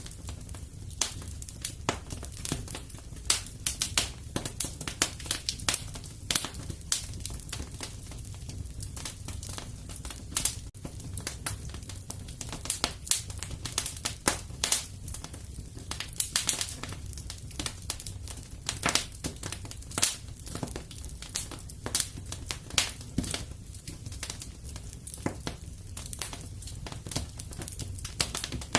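Fireplace fire crackling and popping in quick, irregular snaps over a steady low rumble.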